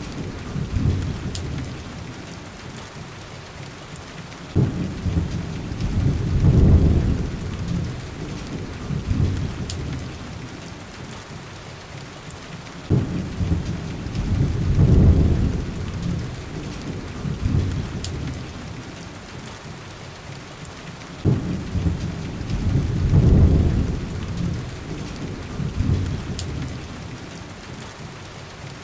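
Steady heavy rain on window glass, with three low rolls of thunder about eight seconds apart, each starting sharply and swelling before dying away.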